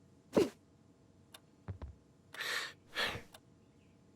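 Cartoon kitten vocal effects: a short mew falling in pitch, then a few faint ticks and two breathy huffs or sighs.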